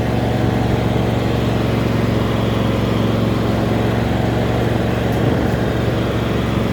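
An engine idling steadily, a low, even hum that holds one pitch throughout.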